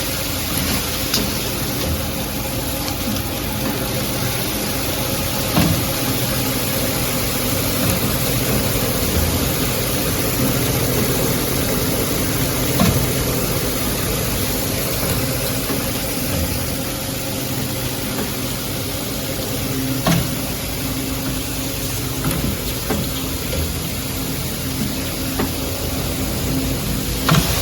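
Coil nail production line machinery running steadily: a continuous mechanical hum with steady tones, broken by a few sharp clacks spaced several seconds apart.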